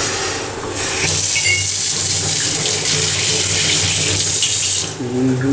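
Water running from a tap into a sink: a steady rush that starts about a second in and cuts off near the end.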